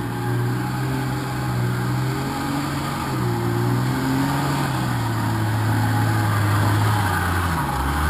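Jeep Wrangler's engine pulling at low speed up a rutted dirt track, a steady hum whose pitch wavers with the throttle and sinks about five seconds in and again near the end.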